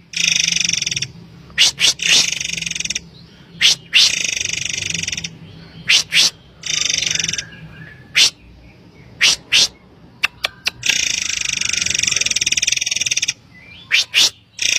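Murai air (forktail) calling: harsh, buzzy rasping calls from half a second to over two seconds long, alternating with quick pairs and runs of short, sharp, high-pitched whistled notes. The longest rasping call comes about eleven seconds in.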